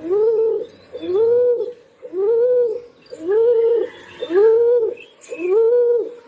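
Pigeon cooing: six rising-and-falling coos, about one a second, with faint chirps of small birds behind.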